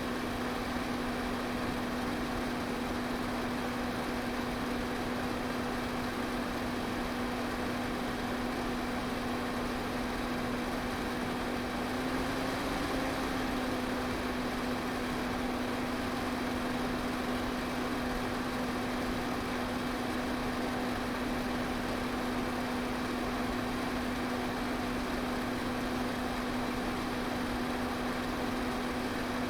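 Electric fan running steadily: an even rush of air over a constant motor hum.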